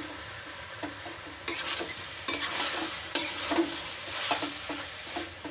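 Spatula stirring spinach and vegetables in a frying pan: short strokes about three times a second, with a few louder scrapes, over the steady sizzle of the food cooking.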